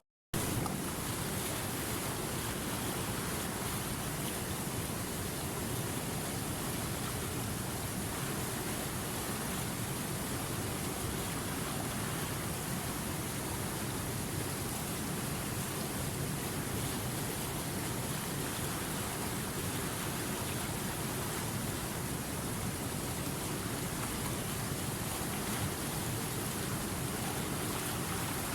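River water running steadily over rocks, an even rushing hiss. It cuts out for a split second at the very start.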